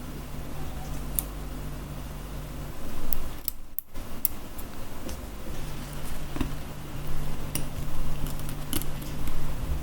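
Scattered small metallic clicks and taps of hand tools and small camera parts being handled on the workbench, over a steady low hum. The sound drops out briefly about a third of the way in.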